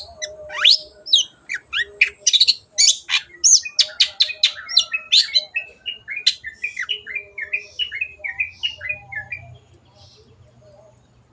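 Long-tailed shrike (cendet) singing a fast, varied song of chirps, trills and quick mixed notes. The song breaks off about nine and a half seconds in, leaving a few faint notes.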